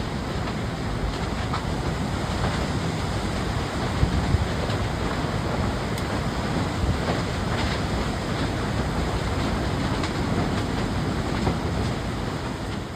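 Hurricane wind blowing hard across the microphone, a steady rushing roar with a few brief louder gusts, fading near the end.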